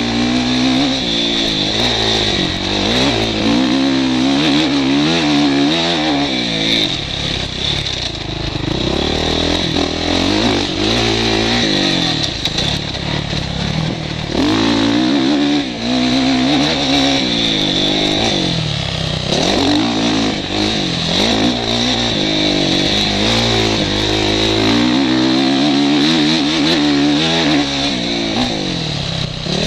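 Motocross bike engine heard from a helmet camera, revving up and falling back over and over as the rider accelerates, shifts and backs off through the track's sections.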